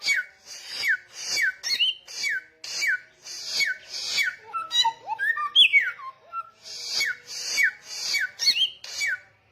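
A samyong songbird singing loudly and persistently: a rapid run of repeated phrases, each a raspy hiss with a sharp falling whistle, about one and a half a second. About six seconds in comes a longer falling whistle, and the song stops abruptly near the end.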